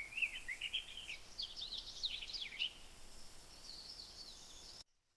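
Cockatiels chirping: quick rising and falling chirps for the first two and a half seconds, then a faster, higher warbling run that cuts off suddenly near the end.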